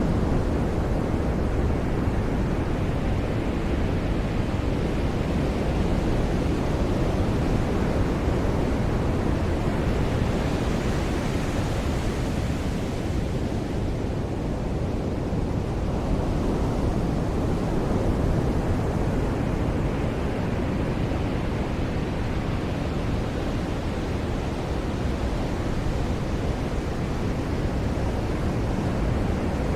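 Ocean surf breaking on a beach: a steady wash of waves, with one wave's hiss swelling about ten seconds in and fading a few seconds later, and a low rumble underneath.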